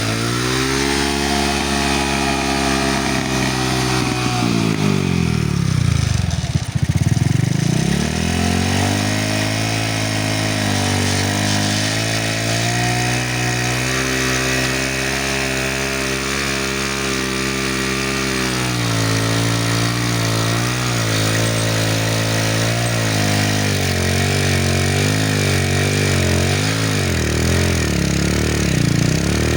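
A small engine running, its pitch dropping sharply about six seconds in and climbing back, then wavering up and down near the end as the speed is varied.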